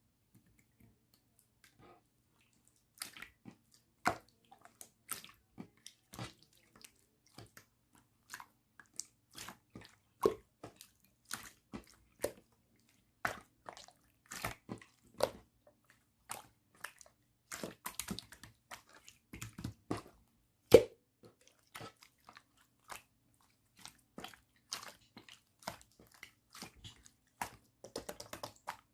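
Slime being squished and pressed by hand: a run of irregular sticky clicks and wet pops that starts about three seconds in, with one louder snap past the middle.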